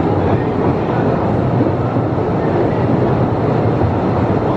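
Postojna Cave's electric tour train running steadily through the cave passages, a loud continuous rumble of the train in motion.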